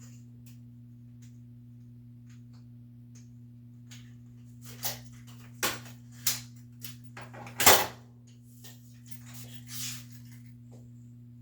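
Scattered knocks and clatter of parts and tools being handled while a top-load washer is taken apart, with one loud knock about two-thirds of the way through, over a steady low hum.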